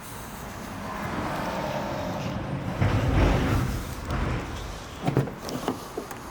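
A car's sound swells to its loudest about three seconds in and then fades, followed by a few short knocks near the end.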